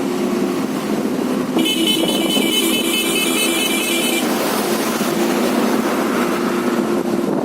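Motorcycle engine running steadily on the move, with wind rush on the microphone. From about one and a half seconds in, a high, rapidly pulsing vehicle horn sounds for about two and a half seconds.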